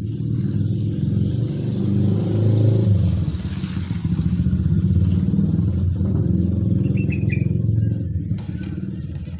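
A motor vehicle engine, motorcycle-like, running close by: a low, rapid rumble that swells through the middle and eases off near the end.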